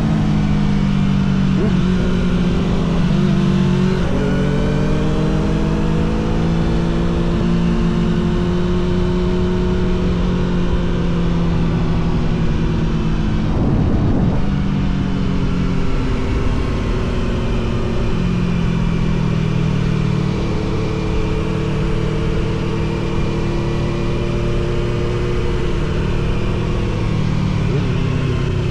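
Suzuki GSX-R750 SRAD's inline-four on the move through a Yoshimura R77 exhaust, its pitch climbing and easing off as the rider works the throttle and shifts gears several times, with a brief rush of noise about halfway through.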